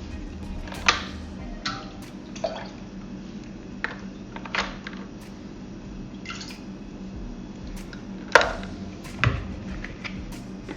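Plastic baby bottles and parts knocking and clicking as they are set into a microwave steam sterilizer tray, about ten irregular taps with a louder knock near the end.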